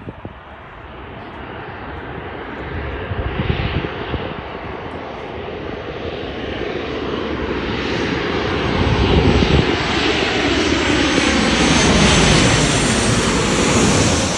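An airliner's jet engines pass close by: a roar that builds steadily over several seconds, is loudest in the second half, and has tones that slide down in pitch as it goes past.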